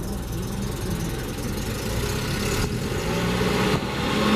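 Classic car engine running and being revved, its note shifting up and down and growing louder toward the end.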